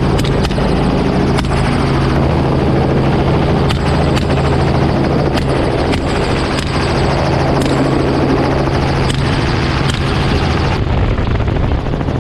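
Helicopter running steadily in flight, heard from on board, with about ten rifle shots fired from the cabin at uneven intervals of roughly a second.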